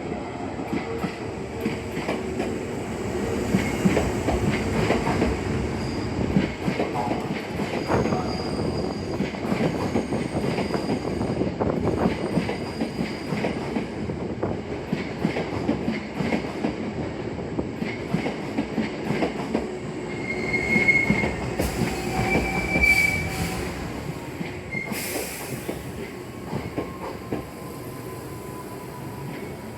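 Hankyu 8000 and 7000 series electric commuter train pulling in, its wheels clattering over rail joints and points, with thin wheel squeals now and then, strongest a little past the middle. A short hiss comes about 25 s in.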